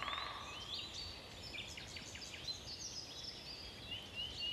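Faint birdsong: several small birds giving short, high chirps and whistled notes, some sweeping up in pitch, over a soft background hiss.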